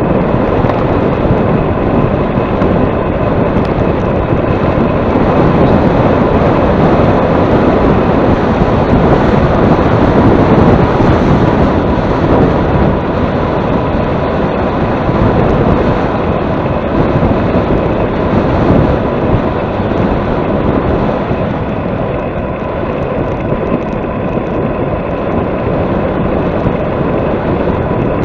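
Heavy wind rushing and buffeting over the microphone while riding into a headwind, a loud steady roar with a faint high tone held steady beneath it.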